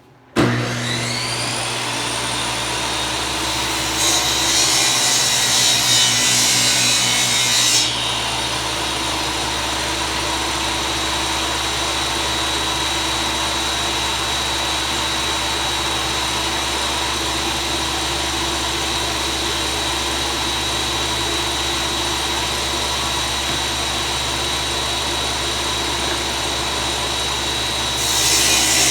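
Electric power saw starting up with a short rising whine, then running steadily while cutting grooves in wood; the cutting gets louder about four to eight seconds in and again near the end.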